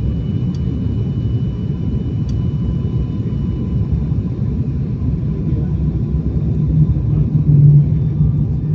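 Airliner cabin noise: a steady low rumble of jet engines and airflow, with a low hum that grows louder about seven seconds in.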